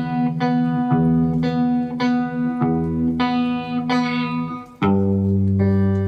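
A guitar picks a repeating phrase of ringing notes over a held low note. Near five seconds in, it changes suddenly to a fuller, louder chord with a deeper bass.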